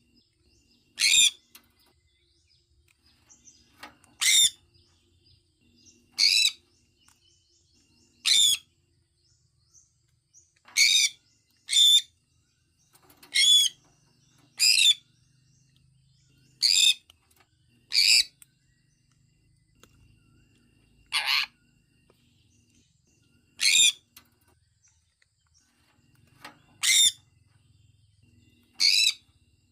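Sun conure giving short, high-pitched chirping calls, one every one to three seconds, sometimes two in quick succession.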